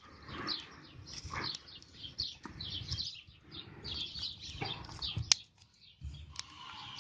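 Small birds chirping throughout, over the rustling and knocking of wooden sticks being handled and laid on a campfire. A single sharp crack sounds about five seconds in, with a smaller one a second later.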